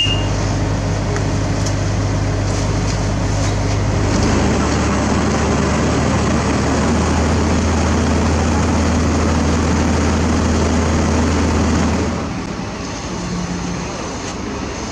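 Heavy diesel engine of construction machinery running steadily under load. Its low hum shifts in pitch about four seconds in and falls away about twelve seconds in.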